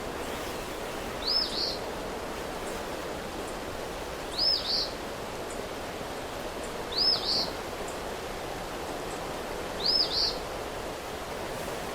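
Steady rain noise with a bird's call repeated four times, a short high two-part note about every three seconds.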